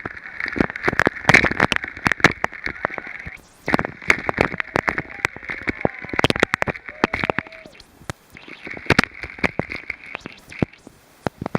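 Rushing water splashing and spattering close over the camera, full of crackles and knocks, surging in three waves.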